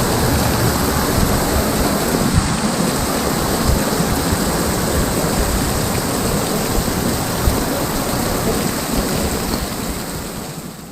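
Heavy rain pouring down steadily, a dense, even hiss with a low rumble beneath it, fading out near the end.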